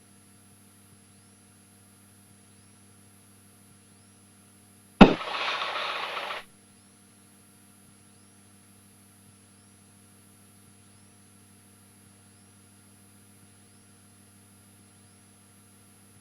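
Aviation radio with a steady electrical hum, broken about five seconds in by a click and a second and a half of static, as someone keys the frequency without speaking.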